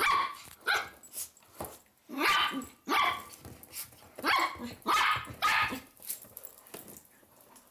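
A dog barking, several barks at uneven intervals, some short and some drawn out, dying away in the last second or so.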